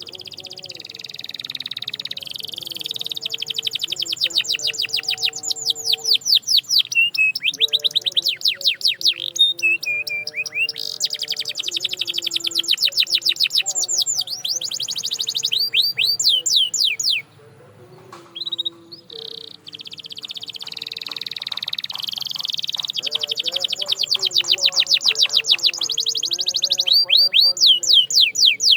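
Canary singing: long, fast trills of rapidly repeated notes and sweeping rolls, loud and continuous. The song breaks off briefly a little past halfway through, then resumes.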